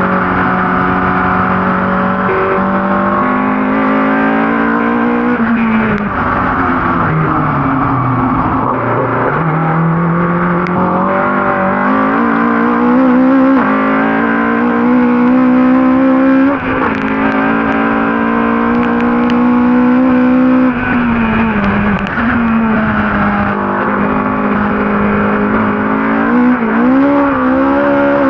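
Ford Cortina race car's engine running hard at racing speed, its pitch repeatedly climbing and then dropping sharply with each gear change or lift for a corner, with one long deep fall and recovery in the first ten seconds.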